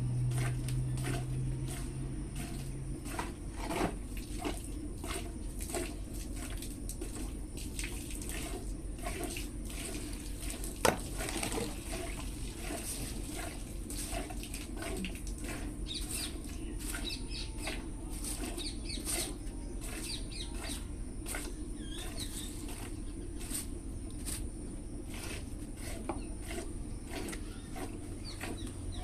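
Milk squirting into a pail as a buffalo is milked: a steady run of short, splashy squirts, with one sharper click about eleven seconds in.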